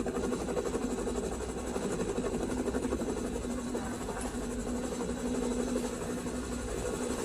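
Helicopter running with its rotor beating: a steady drone with a rapid, even pulsing.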